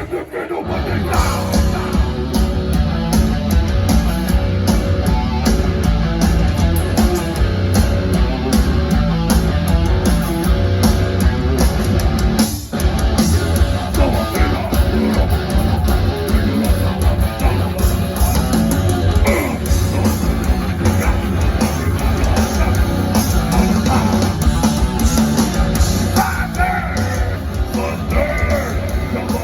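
Heavy metal band playing live, loud and dense: distorted electric guitars over bass and drums, with a brief break about 12 seconds in before the band comes back in.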